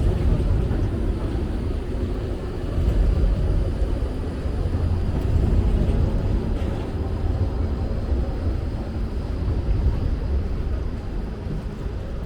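Steady low rumble of a vehicle going by on a wet street, over a light background hiss of rain.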